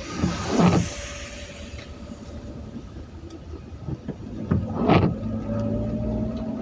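Road traffic on a rain-wet road: two vehicles go past, each a swelling and fading rush of tyres on wet tarmac, about half a second in and about five seconds in, over a steady engine hum.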